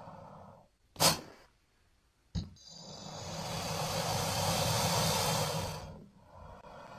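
Creature sound effects for a giant prehistoric crocodile, Sarcosuchus: a short, sharp burst of hiss about a second in, then a brief click and a long breathy hiss that swells and fades over about three seconds.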